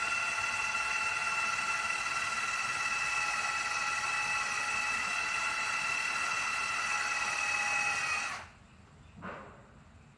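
Electric drill with a metal-drilling bit running steadily into stainless steel, a continuous whine that stops abruptly about eight seconds in. Two light knocks follow near the end.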